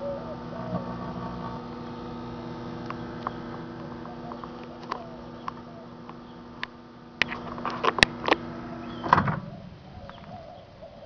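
Microwave oven running to destruction, a steady electrical hum, with a run of sharp snaps and crackles about seven seconds in; the hum cuts off suddenly about nine seconds in.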